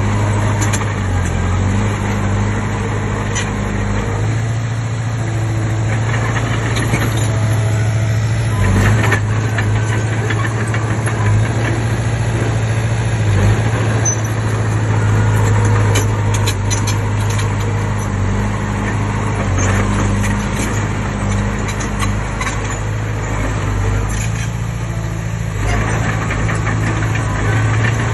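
Komatsu D20P bulldozer's diesel engine running steadily under working load, with a few faint knocks over it.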